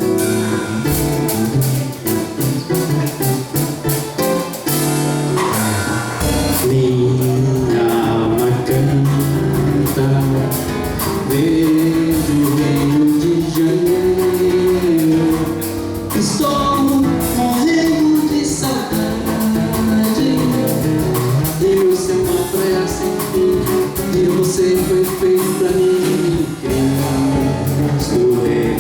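Live samba band playing: acoustic guitar, drum kit with busy cymbal and percussion strokes, and a sung melody over them.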